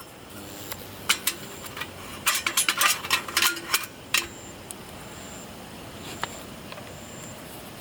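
Cooking utensils and dishes being handled: a quick run of sharp clinks and knocks over about three seconds, then a single clink near the middle. Faint insect chirps repeat about once a second in the background.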